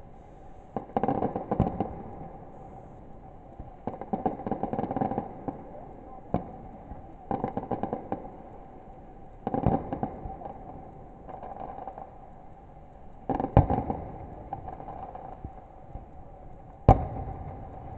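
Fireworks going off: a string of crackling bursts and single sharp bangs every second or few, the sharpest and loudest bang near the end.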